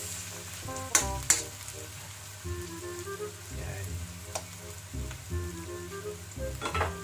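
Sliced onion, garlic and spring onion sizzling in a hot wok while a metal spoon stirs them, with sharp clinks of the spoon against the wok, two close together about a second in and a few more later. Background music plays under it.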